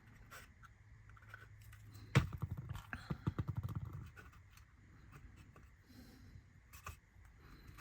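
Hands handling a laser-cut wooden model building kit: a sharp knock about two seconds in, then nearly two seconds of quick rubbing strokes, with a few light taps afterwards.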